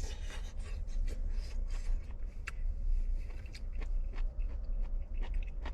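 Small clicks and scrapes of a spoon against a bowl as chicken soup is served and eaten, over a steady low rumble.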